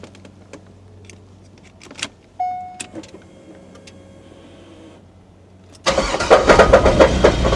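A 1998 Corvette C5's 5.7-litre LS1 V8 fires up about six seconds in and runs loud and rough, with a misfire the owners blame on a worn-out engine. Before that there are a few clicks and a short electronic beep.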